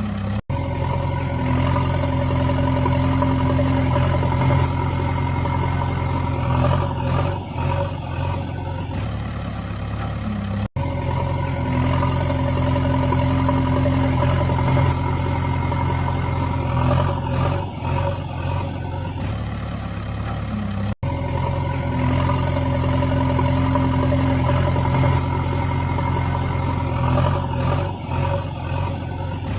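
Steady vehicle-engine sound. About a ten-second stretch of the same sound repeats three times, each repeat starting after a very short dropout.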